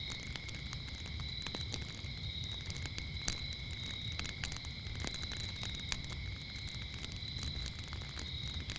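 Campfire crackling with irregular sharp pops over a low rumble, while crickets trill steadily. A short, high, falling chirp repeats about once a second.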